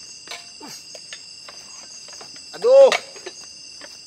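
Insects shrilling steadily in several high, even tones at once, with a few faint light clicks.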